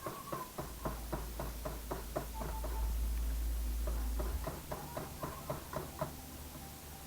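Rapid, evenly spaced knocking of a utensil against a mixing bowl, about four to five strokes a second, as in mixing or mashing cake batter or banana. A low rumble runs under the first half.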